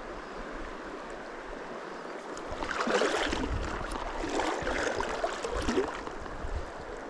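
Shallow trout-stream riffle running steadily, with a stretch of louder, irregular splashing starting about three seconds in and lasting a few seconds.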